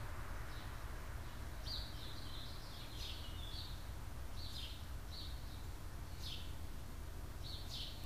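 Birds chirping: short, high calls about every second, some coming in quick runs, over a steady low rumble of background noise.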